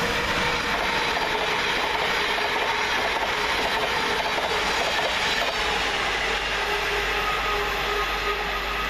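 Thameslink Class 700 Siemens Desiro City electric multiple unit passing slowly through the station: a steady rolling noise of wheels on rail with a faint steady whine.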